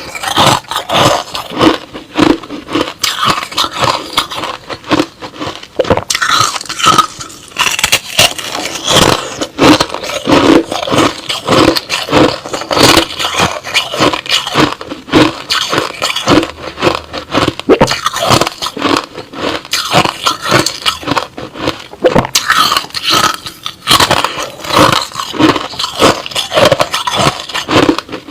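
A person biting and chewing crushed-ice slush: a dense, continuous run of crisp crunches and scrapes.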